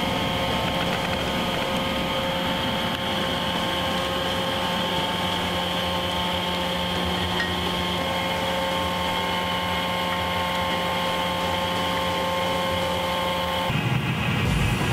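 Small electric blower running with a steady whine, feeding air to a home-built metal-melting furnace's burner. Near the end the whine stops and a louder, lower noise takes over.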